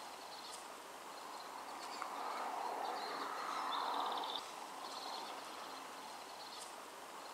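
Faint outdoor ambience with small birds chirping and giving a brief rapid trill about four seconds in. A soft rushing noise swells in the middle and drops off suddenly at about four and a half seconds.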